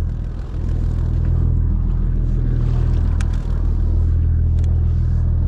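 A fishing boat's engine running with a steady low drone. Two small clicks come about three and four and a half seconds in.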